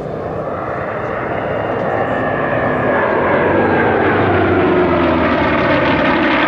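Propeller-driven warbird flying past, its engine growing steadily louder as it approaches; the engine note drops in pitch as it goes by.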